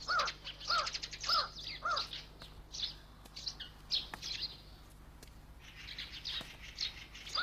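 Small birds chirping: short repeated chirps, evenly spaced at under two a second for the first two seconds, then scattered higher chirps, with another quick run near the end.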